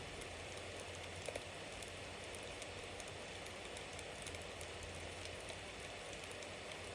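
Wood bonfire burning: a steady hiss with many small crackles and pops, and a couple of louder pops about a second in.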